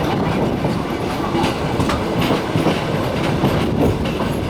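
Passenger train rolling out of a station, heard from aboard: a steady rumble with the wheels clicking irregularly over rail joints.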